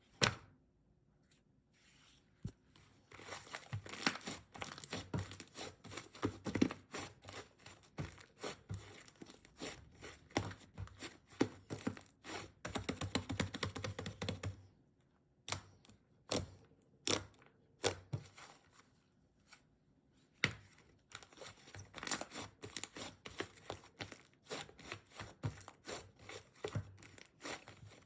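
Pink slime being squished, stretched and pressed by hand, giving dense runs of small crackling clicks and pops with a few short pauses.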